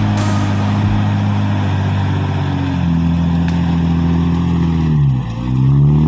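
Off-road 4x4's engine running hard under load, its pitch stepping up about three seconds in, then dipping sharply about five seconds in and climbing straight back as the revs recover.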